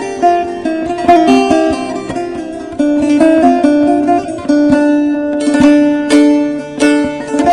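Instrumental break of a Turkish folk song, played on bağlama (saz) in quick plucked runs of notes. A few stronger strummed strokes come about two-thirds of the way in.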